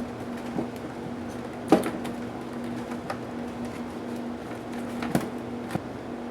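A few sharp clicks and knocks from laptop case parts being handled during disassembly, the loudest about two seconds in, over a steady low hum.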